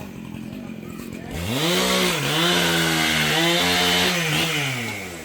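Two-stroke chainsaw revved up to full speed about a second in, held high for about three seconds with a brief dip, then let back down toward idle near the end.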